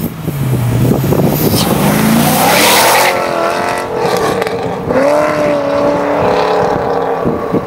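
Chevrolet Corvette C6 Z06's LS7 V8 breathing through Melrose long-tube headers and Billy Boat Fusion mufflers, under acceleration. The engine note rises over the first couple of seconds, then holds fairly steady, with a step up in pitch about five seconds in.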